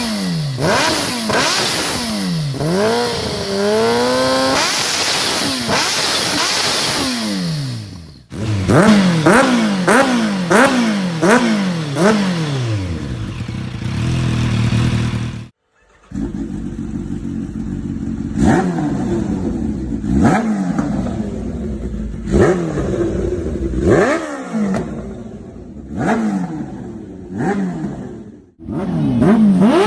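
Kawasaki H2 motorcycle engine and exhaust being revved in repeated throttle blips, each rising sharply in pitch and then falling back. There is a quick run of several blips in a row partway through, and later single blips about every two seconds; the sound cuts out briefly twice.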